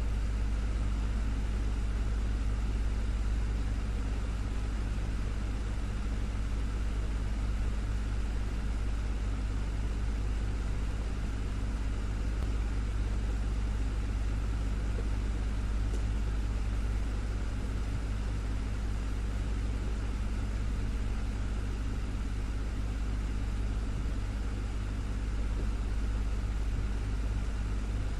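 Desktop fan running steadily: a low, even hum with the rush of moving air over it, unchanging throughout.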